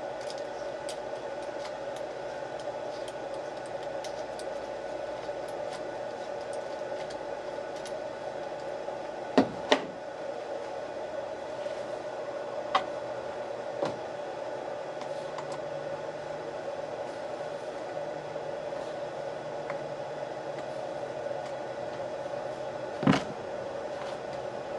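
Steady background hum with a few sharp knocks and clicks of metal parts and tools being handled: two close together about nine seconds in, two lighter ones a few seconds later, and a louder knock near the end.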